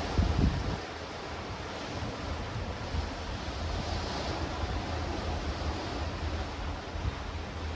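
Sea waves breaking and washing over rocks and stones, in a steady hiss with a brighter wash about four seconds in. Wind buffets the microphone in a loud low rumble in the first second.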